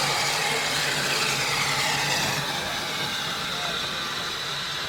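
Train moving along the track with a continuous rolling noise and high squealing tones from the wheels, gliding down in pitch in the first half and then holding steady.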